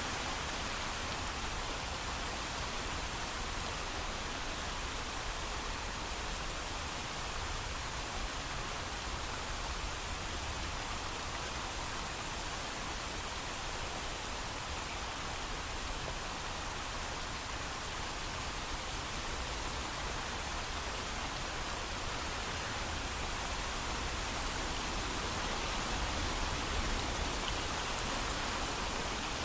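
Steady heavy rain falling, a continuous even hiss with no thunder.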